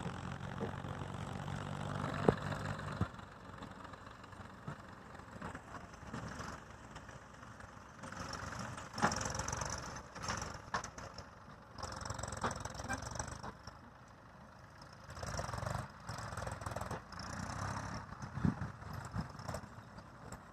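Massey Ferguson tractor engine running steadily, which stops about three seconds in. After that come irregular bursts of mixed noise and scattered clatter.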